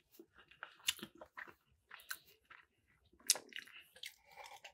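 Mouth sounds of a person chewing a mouthful of jollof rice: soft wet clicks and smacks with a few sharper clicks, the sharpest about three seconds in.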